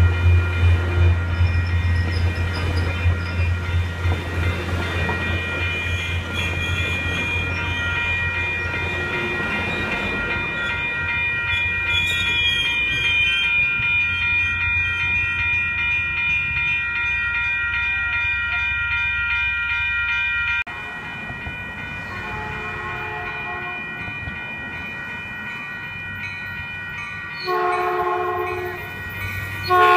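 A Caltrain passes close by, its diesel locomotive giving a heavy low rumble that fades over the first several seconds, with grade-crossing warning bells ringing steadily. After a cut, an approaching Caltrain sounds its horn in several blasts, the last ones much louder near the end.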